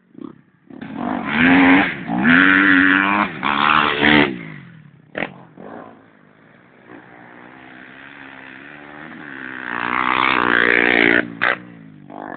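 Dirt bike engine revving hard, its pitch rising and falling through gear changes, loudest in the first few seconds. From about halfway a bike's engine grows louder, peaks and drops away near the end, as it passes close.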